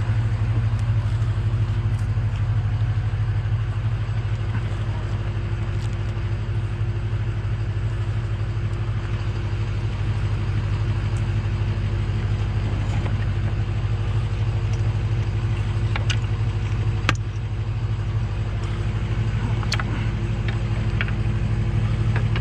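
Truck engine idling steadily, with a few sharp clicks and knocks about two-thirds of the way through and near the end.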